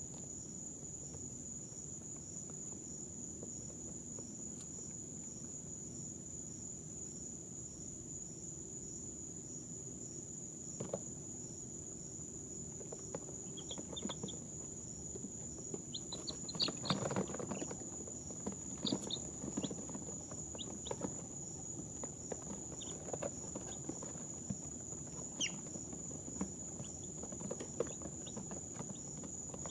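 Baby chicks stirring in their bedding, with scattered short faint peeps and rustles, busiest in the middle, and one chick giving a tiny sneeze. A steady high-pitched whine runs underneath.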